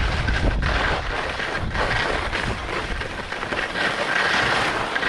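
Wind buffeting the microphone while skis slide and scrape over snow on a traverse, a steady rushing noise with gusty thumps.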